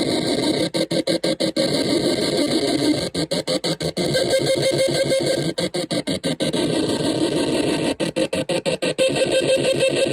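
OM-BOT Psychic Cell experimental sound machine putting out a dense, noisy electronic drone. The drone is chopped by clusters of rapid stuttering cutouts every couple of seconds.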